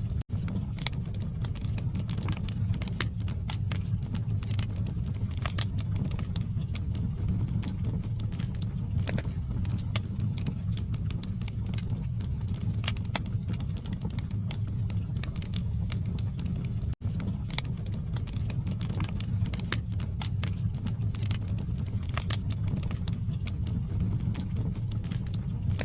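Wood fire burning in a fireplace: a steady low rumble of flames with frequent, irregular sharp crackles and pops from the burning logs. The sound cuts out for an instant just after the start and again about two-thirds of the way through.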